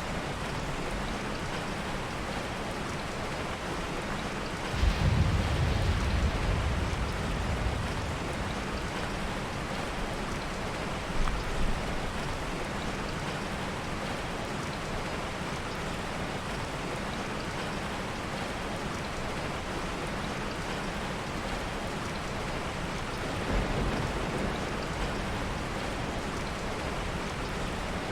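Heavy rain falling steadily with a constant hiss. A low rumble of soft thunder breaks in sharply about five seconds in and dies away over a few seconds, with shorter, fainter rumbles about eleven seconds in and near the end.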